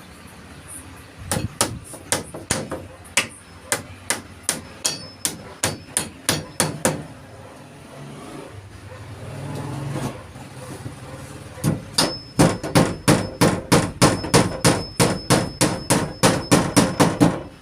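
Hammer driving nails into hard, dried wood: a run of strikes about two to three a second, a pause of a few seconds, then a faster run of about four strikes a second with a high ringing tone over them.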